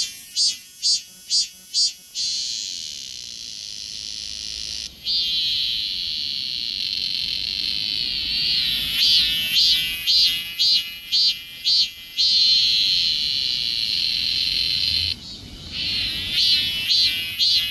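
Cicada song: runs of loud pulses about two to three a second alternate with long, unbroken buzzing drones, a pulsed phrase near the start, another in the middle and a third near the end. There is a brief dip about three-quarters of the way through.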